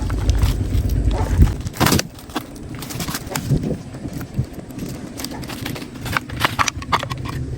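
Workshop handling sounds: scattered sharp clicks and knocks of hand tools on metal chainsaw parts. A low rumble runs through the first second and a half and then stops.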